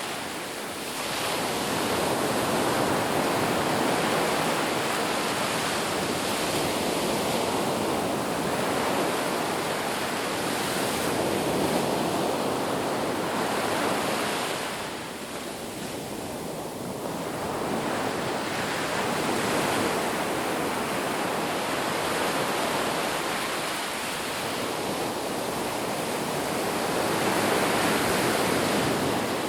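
Ocean surf breaking on a beach in a steady wash of noise that swells and eases, dipping briefly about a second in, around the middle and again later.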